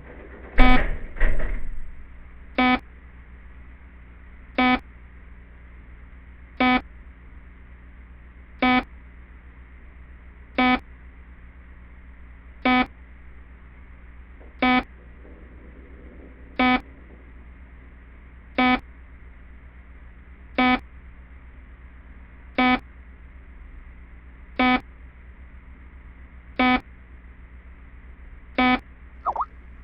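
Two loud noises in quick succession, the first a sharp bang, then a security camera's alarm beeping about once every two seconds, set off by the noise.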